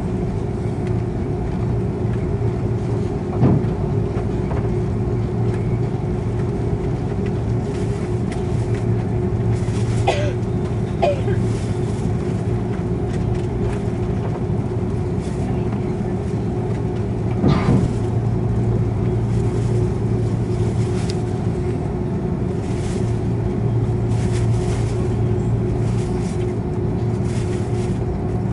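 Rolls-Royce Trent 700 jet engines of an Airbus A330-300 heard inside the passenger cabin: a steady hum with a few held tones under a wash of cabin noise, broken by a couple of brief knocks.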